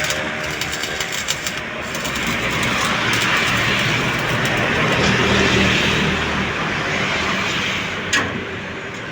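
A truck's engine running with a steady rushing noise and a faint low hum; a sharp click near the end.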